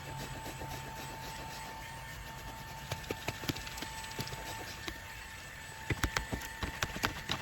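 Cordless handheld vacuum cleaner running with a steady high whine. Scattered sharp clicks and rattles come through it, bunched about three seconds in and again near the end, as debris is sucked up through the nozzle.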